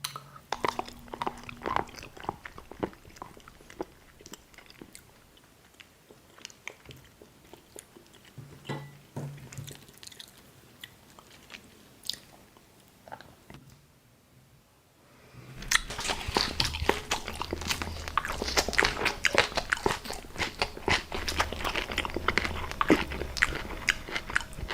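Close-miked ASMR eating: scattered bites and wet chewing clicks, turning about two-thirds of the way in to a louder, dense stretch of crunching and crackling.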